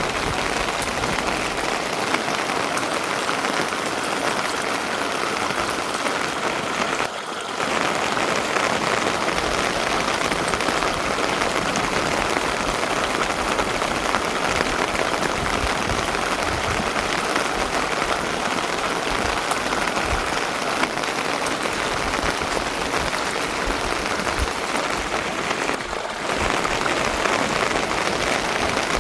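Steady rain falling: a dense, even hiss that dips briefly twice.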